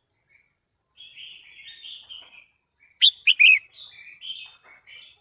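Female red-whiskered bulbul calling: a run of chattering chirps from about a second in, then three loud, sharp notes around the middle, followed by softer chirps.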